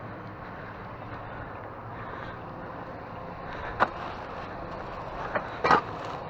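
A steady background rumble, with two short sharp knocks, one about four seconds in and a slightly longer one near the end.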